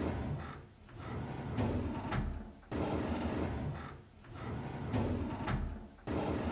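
A drawer being pulled open on its runners, over and over: each pull is a rumbling slide of about three seconds that ends in a sharp knock, repeating roughly every three and a half seconds.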